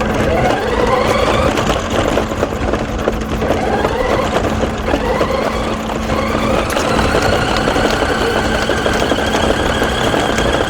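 Toy RC race car's electric motor whining, rising in pitch as it speeds up three times and holding a steady high whine near the end.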